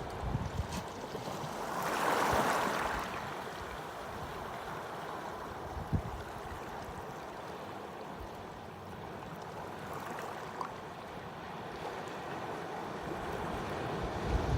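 Pacific Ocean surf: a steady wash of waves, with one wave breaking louder about two seconds in and a brief low thump about six seconds in.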